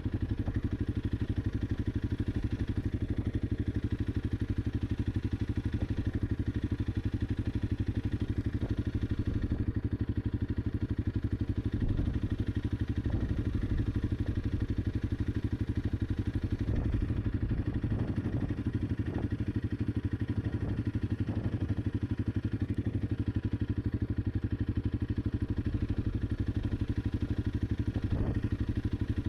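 Honda CRF300 Rally's single-cylinder engine running at a steady, even pitch as the motorcycle is ridden along.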